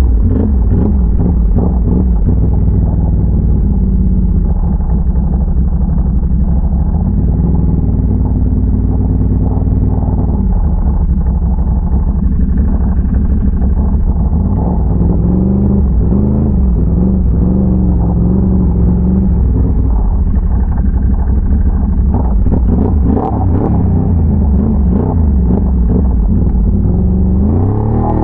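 Can-Am Renegade ATV's V-twin engine running while riding, steady and loud, its revs rising and falling with the throttle.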